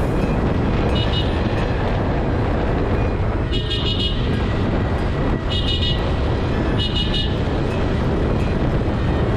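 Steady road-traffic and engine rumble with a high-pitched vehicle horn beeping four times: once briefly about a second in, then three longer beeps between about three and a half and seven seconds in.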